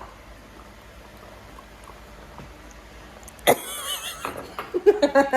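Quiet room hiss, then about three and a half seconds in a sudden loud, high-pitched wavering vocal squeal, followed by voices.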